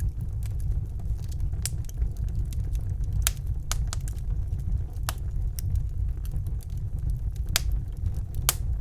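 Wood fire crackling in a fireplace: sharp, irregular pops and snaps about once a second over a steady low rumble of the burning logs.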